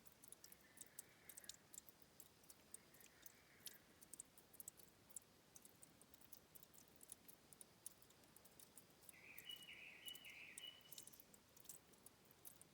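Faint trickling and dripping of spring water at a stream's headwater, heard as scattered light ticks. A few faint short animal calls sound in the first four seconds, and a louder call lasting about two seconds comes near the end.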